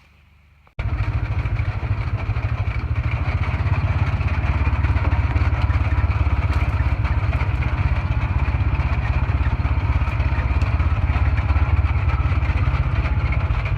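Engine of a Polaris RZR side-by-side utility vehicle running steadily, a deep rumble with rapid low pulsing, cutting in abruptly about a second in.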